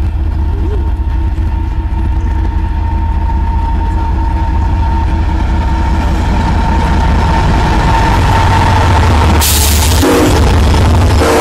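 Union Pacific diesel freight locomotives hauling a double-stack container train, approaching with a steady engine rumble that grows louder. A rush of noise comes as the locomotives draw level, and a short horn blast sounds about ten seconds in.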